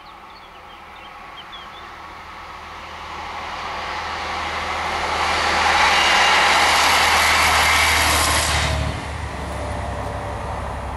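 Two-car regional passenger train passing at speed: the rush of its wheels on the rails builds over several seconds, is loudest as it goes by, and drops off sharply as the last car passes, leaving a low hum. A few bird chirps sound near the start.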